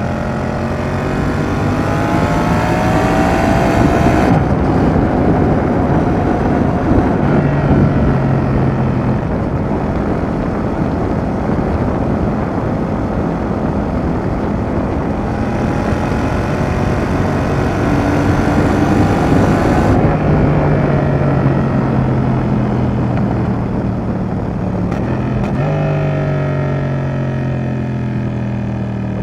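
Yamaha XSR700's 689 cc crossplane parallel-twin running through an aftermarket Roadsitalia Double Fire exhaust as the bike is ridden. It revs up hard for about four seconds before the pitch drops at a gear change, then pulls again and rolls off after about twenty seconds, with the revs falling near the end. Heavy wind rush runs under the engine.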